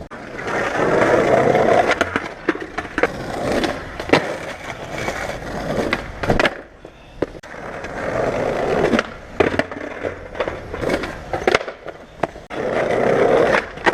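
Skateboard wheels rolling over rough car-park ground in several runs, broken by sharp clacks of the board being popped and slapping down as tricks are tried.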